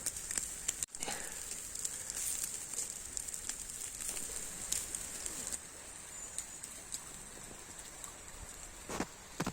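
Campfire crackling with small scattered pops over a steady high hiss, which weakens a little past halfway; birds call in the background, and there is a single louder knock near the end.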